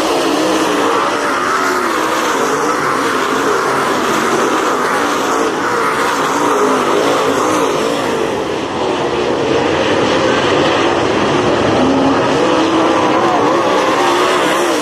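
Several dirt-track race car engines running hard on the track, their pitches rising and falling as the cars go through the turns and down the straights.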